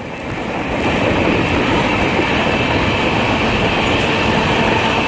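Running noise of a moving passenger train heard at an open coach door: the wheels on the rails make a loud, steady rumble and rush. It swells over the first second, then holds steady.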